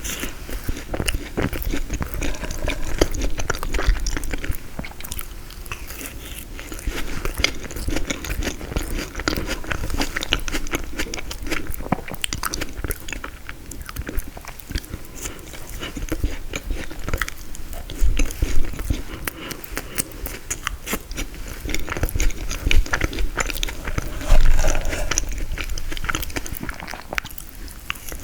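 Close-miked chewing and biting of frozen tiramisu: a dense, unbroken run of small sharp clicks, with a few louder bites standing out along the way.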